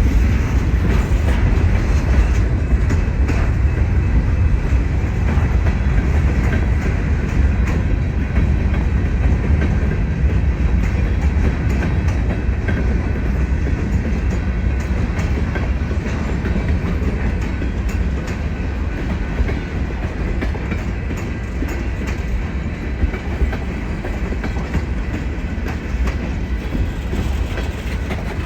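Railroad cars rolling steadily past, their wheels clicking over the rail joints. The sound eases off slightly toward the end.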